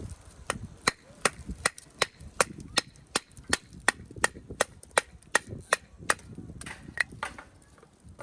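A run of about seventeen sharp, evenly spaced strikes, close to three a second, ending about seven seconds in.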